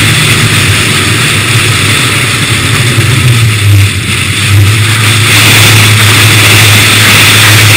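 Honda S2000's four-cylinder engine running through a Comptech aftermarket exhaust with a K&N intake, holding a steady low note. It briefly drops off about four seconds in, then picks up again steadily.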